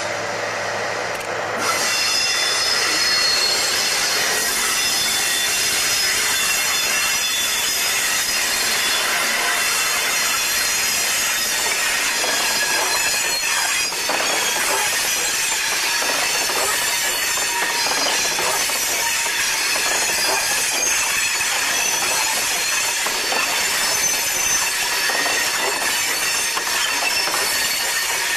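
A long train of bogie hopper wagons behind a Class 60 diesel locomotive rolling past close by on curved track, steel wheels squealing in continuous high-pitched tones over the rumble of the wheels on the rails. It gets louder about two seconds in and stays steady after that.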